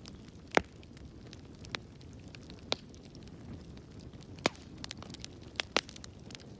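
Wood fire crackling in a fireplace: a steady low rumble with sharp, irregular pops and snaps, the loudest about half a second in and a quick pair near the end.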